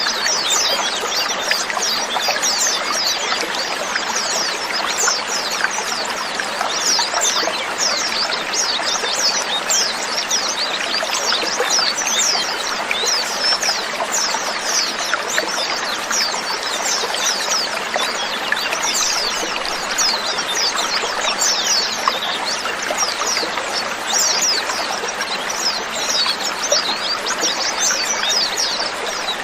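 A flock of white-eyes (pleci) chirping together: many short, high, falling calls overlap in a dense, continuous chatter.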